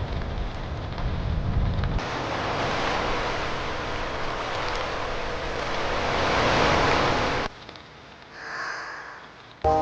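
Rain-and-surf ambience: a low rumble for the first two seconds, then a steady wash of surf that swells and cuts off suddenly. Quieter, with a faint swish, before music starts right at the end.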